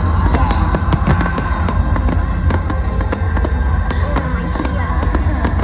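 Fireworks popping and crackling in quick succession over loud show music with a heavy, constant bass.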